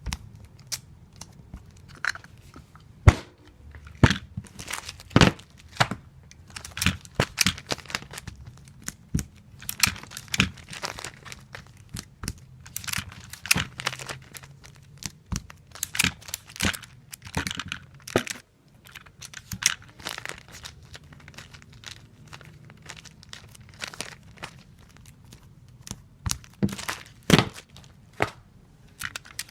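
Adhesive tape being pulled off a tape dispenser and torn off, again and again, while comic books are taped: irregular sharp clicks and snaps with short tearing rasps and crinkling between them.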